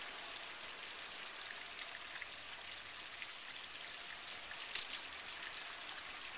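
Steady hiss of a creek's running water, with a few faint clicks about three-quarters of the way through.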